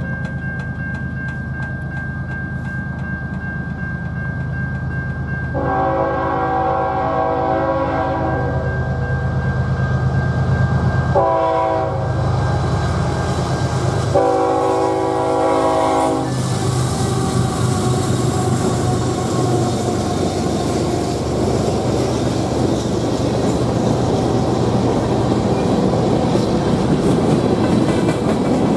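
A freight locomotive's air horn sounds the grade-crossing signal as the train approaches: long blasts, a short one, then a final long one, over the steady drone of its diesel engine. The train then rolls through the crossing with wheel rumble and clickety-clack over the rail joints, growing louder toward the end.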